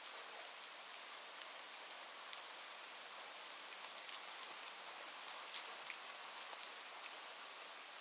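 Steady rain falling, a soft, even hiss with many individual drops ticking sharply throughout.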